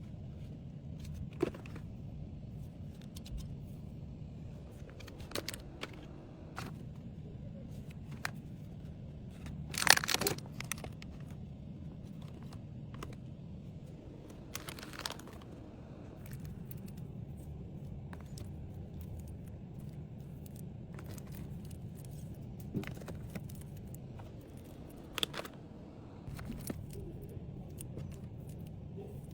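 Small packaged items being handled: plastic wrapping crinkling and scattered light clicks over a steady low hum, with the loudest rustle about ten seconds in and another around fifteen seconds.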